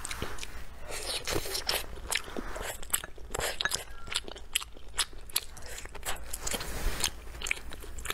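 A person biting and chewing strips of food close to the microphone, with many small, sharp mouth clicks.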